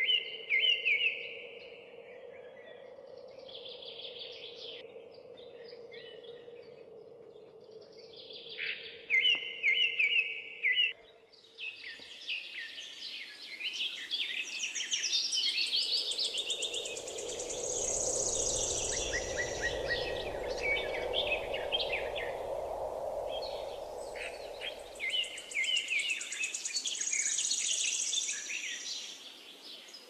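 Several birds chirping and singing, scattered phrases at first and then a dense, overlapping chorus from about twelve seconds in. A faint low hum runs underneath and swells into a low rumble through the middle, then fades.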